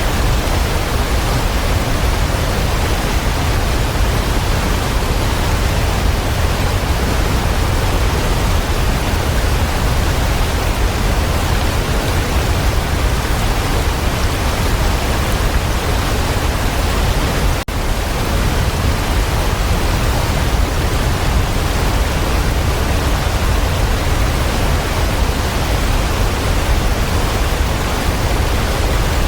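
Waterfall: a steady, dense rush of falling water, heaviest in the low end, with a momentary dropout about two-thirds of the way through.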